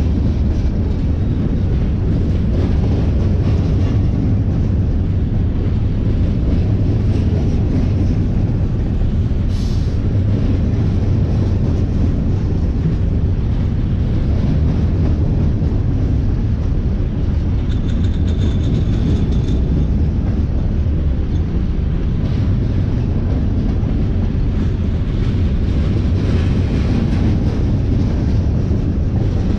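A train passing, a steady low rumble that holds at an even level throughout. There is a short click near the ten-second mark, and a brief high tone a little past the middle.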